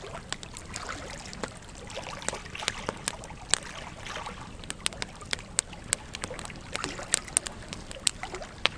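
Wood campfire crackling, with many irregular sharp pops and snaps over a soft steady rushing noise.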